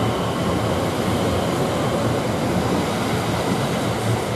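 Elizabeth line Class 345 electric train moving at close range, a steady rumble of wheels on rail and running gear with no distinct knocks.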